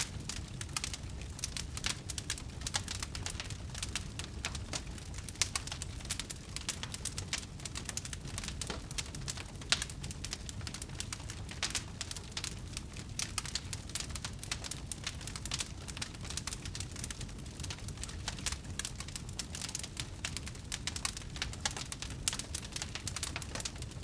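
Wood fire crackling in a fireplace: a constant patter of small snaps and pops over a low steady rumble of the flames, with a couple of louder pops.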